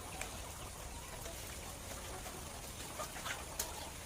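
A few short, faint bird calls, like clucks, over a steady background hiss, the last cluster of them near the end.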